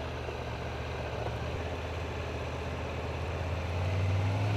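Triumph motorcycle engine running at low revs, a steady low hum that grows louder about four seconds in.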